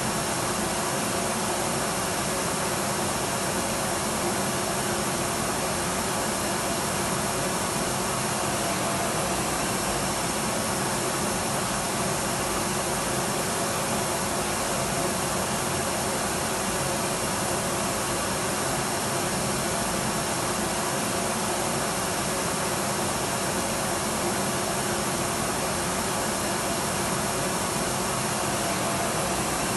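Electric vacuum cleaner running steadily, a constant airy rush with a faint high whine.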